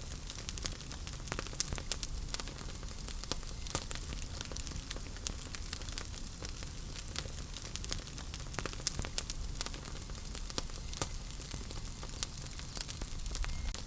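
Wood fire burning in a fireplace, with irregular sharp crackles and pops over a low steady hiss and rumble.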